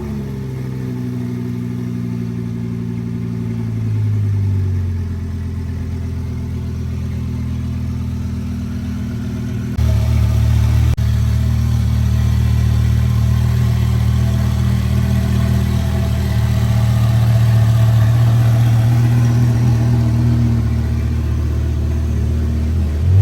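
Twin-turbo Audi R8 engine just after a cold start, running at a high idle that settles lower over the first few seconds, with a brief rise about four seconds in. About ten seconds in the sound suddenly becomes louder and deeper, then holds steady.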